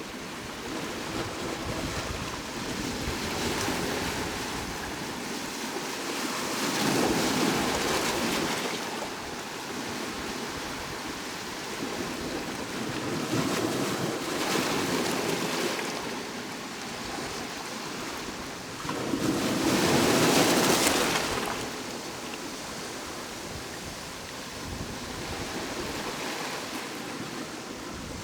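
Sea waves breaking and washing up on the shore, swelling and fading in four surges, the loudest about two-thirds of the way through.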